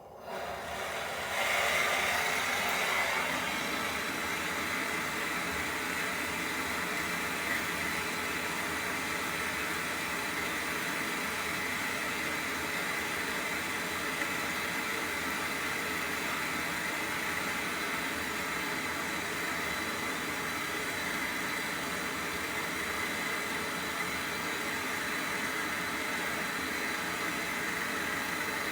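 Gas brazing torch burning with a steady hiss as a refrigerator's refrigerant-line joint is brazed. The flame comes on about half a second in and is loudest for the first couple of seconds before settling.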